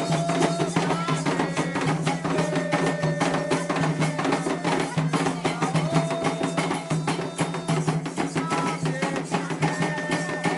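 Candomblé ritual music: atabaque hand drums beating a fast, dense rhythm with a struck percussion bell, and voices singing long held notes over it.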